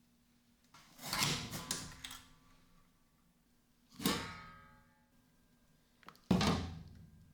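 Workshop handling noises: a short clatter of several quick knocks about a second in, then two sharp knocks, the middle one ringing on briefly like metal.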